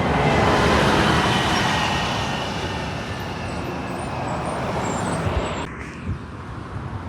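A road vehicle passing close by: the rush of its tyres and engine swells to a peak about a second in, then slowly fades away.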